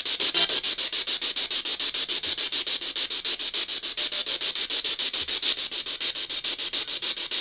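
Spirit box (ghost box) sweeping through radio stations: a steady hiss of static chopped into rapid, even pulses, with a brief faint snatch of radio sound near the start.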